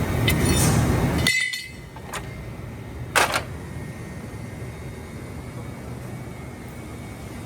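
Dual-shaft shredder running on aluminum scrap with a loud, dense grinding noise that cuts off suddenly about a second in, leaving a quieter steady machine hum. A sharp metallic clink stands out about three seconds in.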